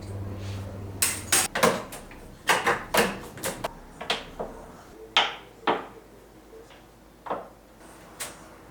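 Hard objects being handled: a string of sharp clicks and knocks, quick and frequent for the first few seconds, then a few scattered ones. A low hum stops about a second in.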